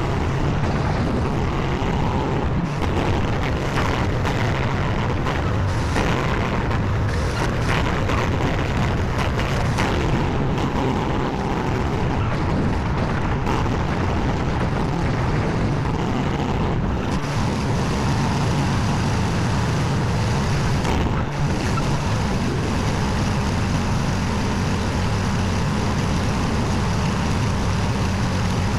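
Skid steer engine running steadily at working speed, with scattered knocks and clunks from the grapple and machine.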